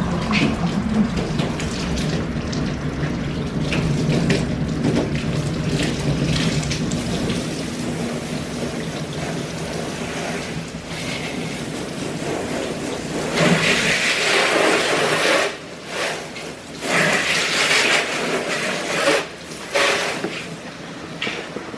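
Garden hose spraying water onto a car, a steady hiss of spray that grows louder in the second half and breaks off and restarts several times.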